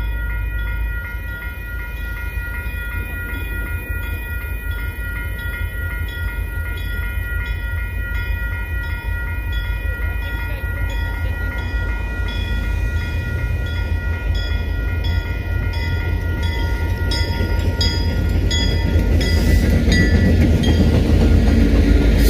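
Railroad crossing bell ringing steadily while a Canadian Pacific freight train's diesel locomotives approach. Their rumble grows louder until the lead locomotive reaches the crossing near the end.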